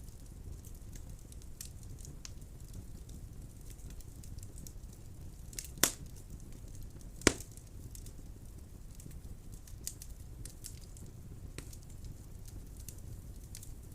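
Wood burning in a fireplace: a steady low rumble of flame with scattered light crackles. About halfway through come two loud, sharp pops a second and a half apart.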